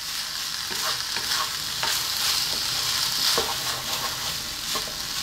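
Fried rice sizzling in a wok as a wooden spatula stirs and turns it, with a steady hiss broken by a few scrapes and taps of the spatula against the pan.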